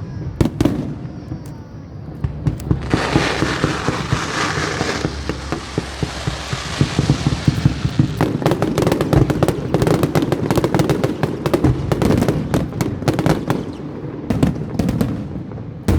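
Aerial fireworks bursting: a few sharp bangs at the start, then a dense crackling hiss from about three to five seconds in, then rapid volleys of bangs and crackles from about eight seconds on.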